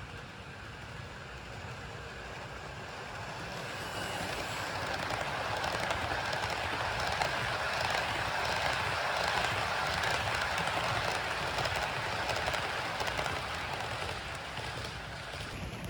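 HO-scale Walthers SD70ACE model locomotive running on DC along the layout track: steady whir of its motor and wheels rolling on the rails. It grows louder toward the middle as it comes close, then fades.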